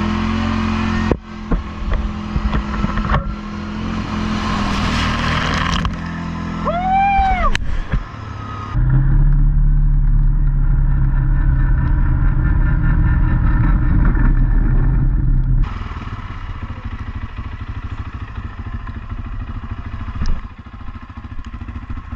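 All-terrain vehicle (ATV) engines running over a string of short cuts. Around seven seconds in, one engine revs up and back down. The middle stretch is a heavy, steady engine drone under load.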